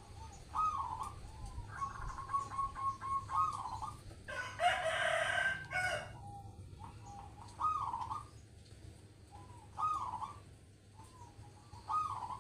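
A zebra dove (perkutut) cooing over and over, with a rising-and-falling trilled coo about every two seconds. About four and a half seconds in, a louder, harsher bird call lasting about a second and a half cuts across the coos.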